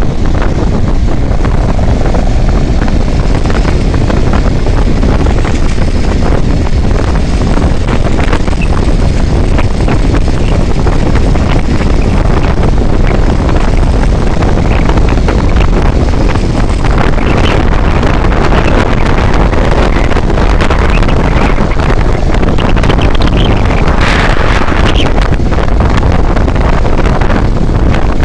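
Loud, steady wind buffeting the microphone of a moving vehicle on the highway, with vehicle road noise under it.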